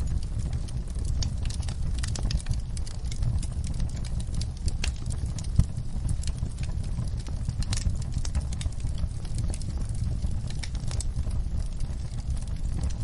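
Wood fire burning in a fireplace: a steady low rumble of the flames with irregular crackles and snaps, and one louder pop about halfway through.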